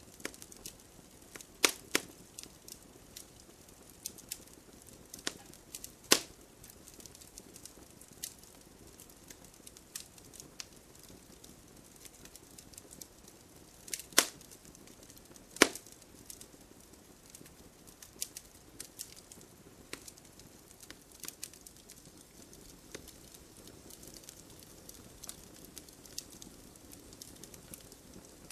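Wood fire burning in a fireplace: a low steady hiss with scattered crackles and several sharp, loud pops from the burning logs.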